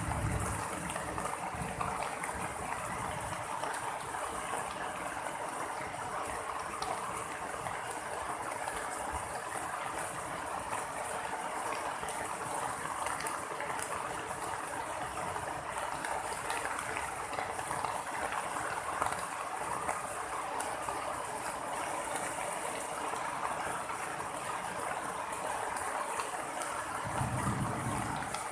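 Steady heavy rain during a thunderstorm, with a low rumble of thunder right at the start and again near the end.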